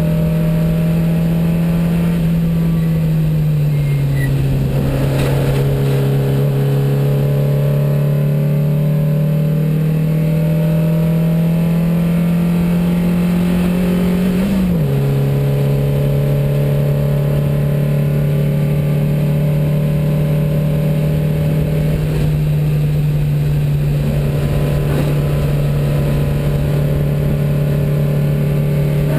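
A 1972 Porsche 914 racer's 2270 cc flat-four engine running hard, heard from inside the cabin. Its pitch drops about three seconds in, creeps slowly upward, then drops sharply at about the halfway point, as at gear changes. It holds a steady pitch for the rest.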